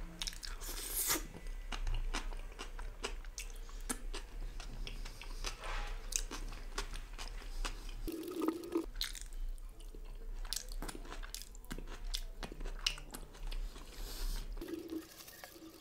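A person chewing a mouthful of momo, with many short wet mouth clicks and squelches.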